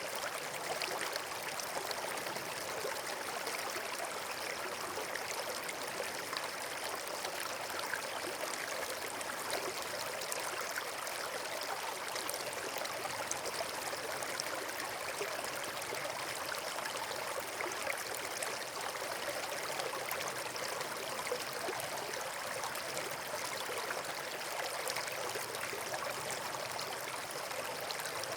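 Steady rush of flowing water from a stream or small waterfall, even and unbroken.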